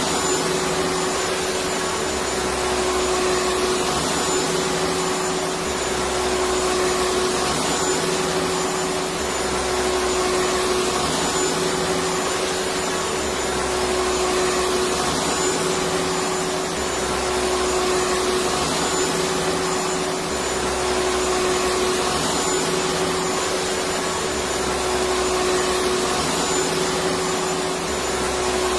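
Electric vacuum cleaner running steadily: an even rushing hiss with a constant hum-like tone, and a low throb that swells and fades about every two seconds.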